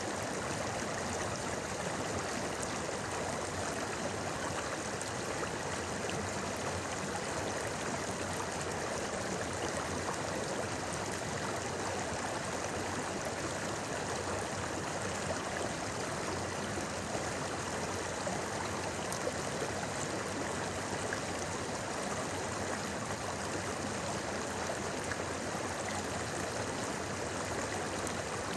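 Shallow river babbling over stones, a steady, even rush of flowing water.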